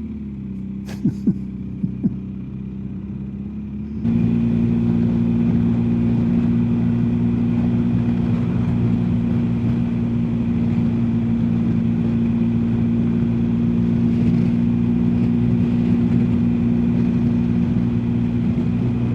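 BMW R1250GS Adventure's flat-twin boxer engine running at a steady cruise with wind and road noise, the engine tone holding steady. About four seconds in it suddenly becomes louder and then stays level.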